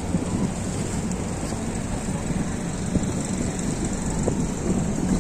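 Steady low rumbling noise that rises and falls slightly, typical of wind and traffic outdoors in a city snowstorm.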